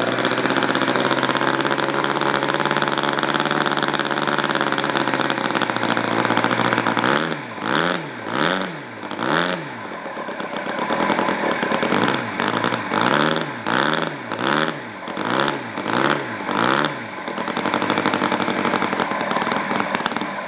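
ASP 1.60 FS Twin four-stroke twin-cylinder glow model-airplane engine running steadily on both cylinders. From about seven seconds in it is revved up and down about a dozen times in quick succession, then settles and stops at the very end.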